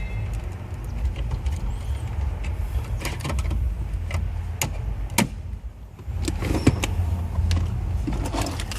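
Sharp plastic clicks and knocks as the dash pocket and trim surround are pressed and snapped into place around a car stereo, several spread through the middle, over a steady low rumble.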